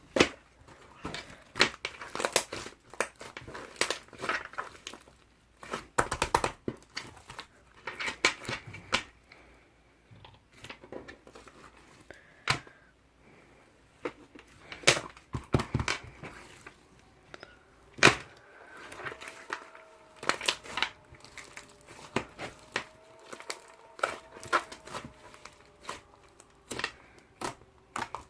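Slime being squeezed, stretched and folded by hand, making irregular sticky pops, clicks and crackles.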